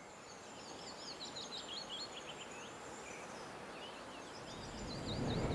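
A small songbird singing short phrases of quick, high, warbling notes over a quiet steady hiss. Near the end a low rush of wind on the microphone starts to build.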